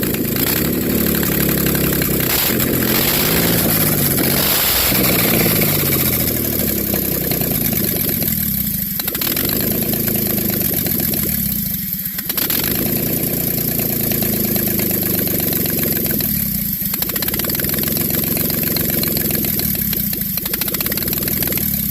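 Chevrolet 4.3 L V6 running rough on its first start after an engine swap, with no exhaust manifolds fitted so it exhausts straight out of the open ports. It is revved up and down repeatedly and stumbles briefly a few times.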